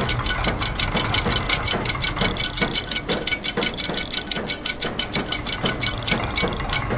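Layered loops of factory machine sounds, such as gears, ratchets and clockwork, forming a dense polyrhythm of rapid mechanical clicking over a steady low hum.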